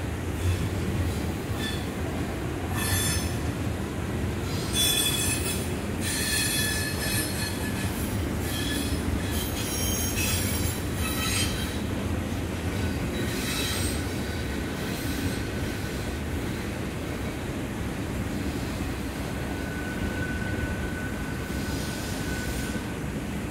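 Double-stack intermodal freight train of well cars rolling past: a steady low rumble of wheels on rail, with several bursts of high wheel squeal in the first half and a thin, steady squeal near the end.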